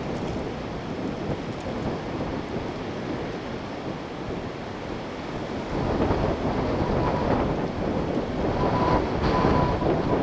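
Strong wind gusting through trees, with wind buffeting the microphone; the gusts grow louder about six seconds in.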